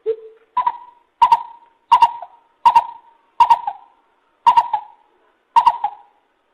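Lesser coucal calling: a series of eight notes, the first low and the rest about an octave higher, each note broken into a few quick pulses. The notes come roughly a second apart, spacing out slightly toward the end.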